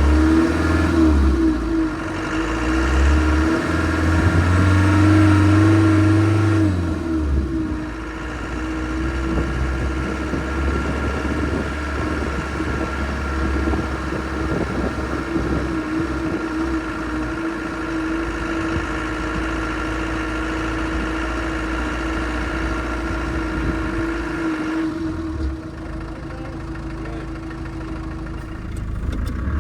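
1995 Land Rover Defender 130's engine working as the truck drives through a tricky stretch of snowy trail. The revs rise and fall and the engine is loudest in the first seven seconds, then it settles to a steadier pull and eases off near the end.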